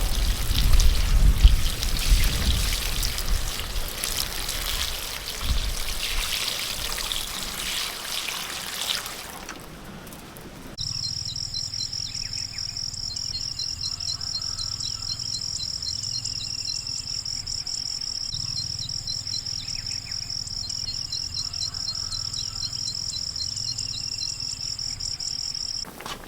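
Insects droning in chorus, a steady high-pitched buzz, with bird calls over it. It starts abruptly about eleven seconds in and stops just as suddenly near the end. Before it there is a noisy hiss with a few low thumps at the start.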